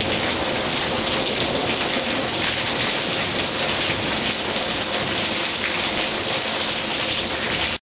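Steady rain falling, a dense even hiss of drops that stops abruptly near the end.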